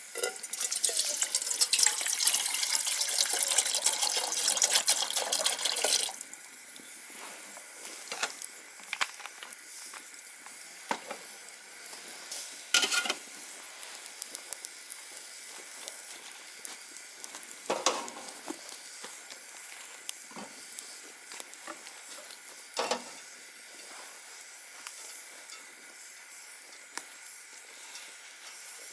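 Cooking over a campfire: a loud, crackling rush of liquid sizzling in the pot for about six seconds, then the quieter steady hiss of the fire with scattered crackles and a few louder pops.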